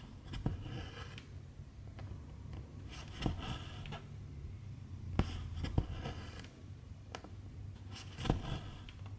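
Needle and silk thread being worked through cross-stitch fabric: about four stitches, each a light tick followed by a short rasping hiss of thread drawn through the cloth.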